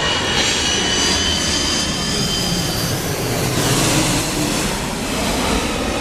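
Jet airliner on final approach passing close by. A high engine whine falls slightly in pitch, then a broad rush of jet noise swells about four seconds in.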